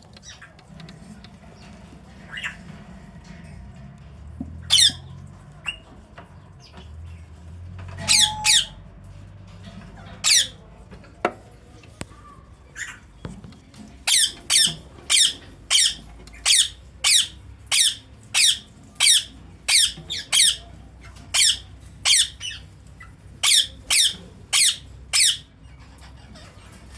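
Indian ringneck parakeet screeching: short, sharp, high calls that fall in pitch. A few come singly at first, then from about halfway a fast run of repeated calls, nearly two a second, for about ten seconds.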